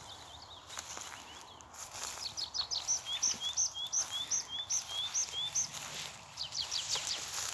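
A songbird singing a rapid series of about eight repeated two-note phrases, a high note followed by a lower slurred one, at about three a second. Other birds chirp faintly around it.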